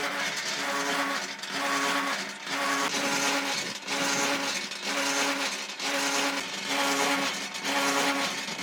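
A motor-driven machine running with a steady pitched whine over a hiss, dipping briefly about once a second.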